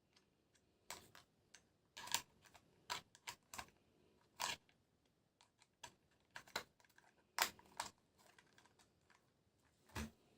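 Scattered light clicks and taps of plastic toy trains and their packaging being handled during unboxing, coming irregularly about once a second, with faint rustling between.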